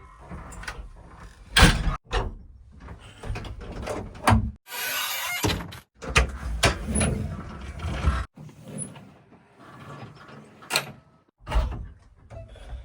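JCB 3DX backhoe loader at work: its engine runs with metallic clanks and knocks from the machinery, broken by several abrupt cuts.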